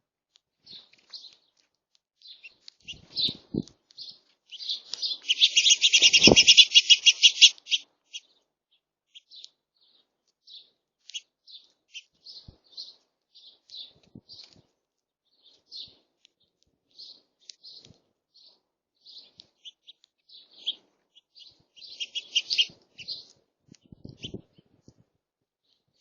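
Small birds chirping at a feeder: many short, high calls scattered throughout, with a loud, rapid chattering trill lasting a few seconds about five seconds in. A few low thumps sound under the calls.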